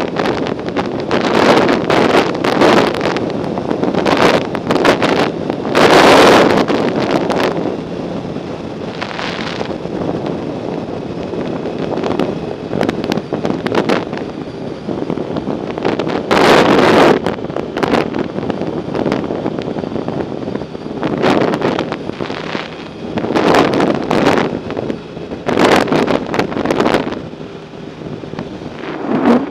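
Wind buffeting the microphone of a camera carried on a moving bicycle: a steady rush broken by loud gusts every few seconds.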